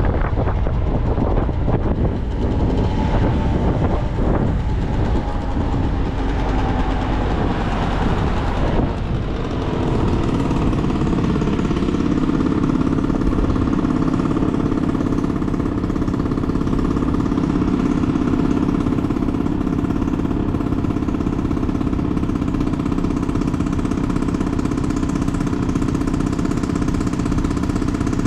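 Motorcycle engine with wind rushing over the microphone as the bike slows, its pitch falling, then the engine idling steadily from about ten seconds in.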